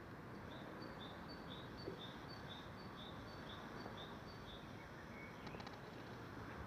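A small bird chirping a repeated two-pitch call, about two short high notes a second for several seconds, then one short rising note, faint over a steady background hiss.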